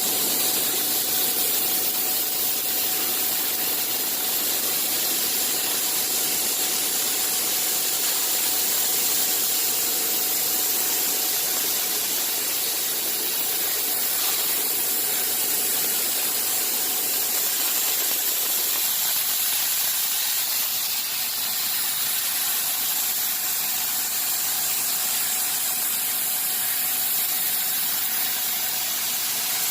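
Bystronic CNC machine running: a steady hiss with a thin steady whine, and a lower noise that drops away about 19 seconds in.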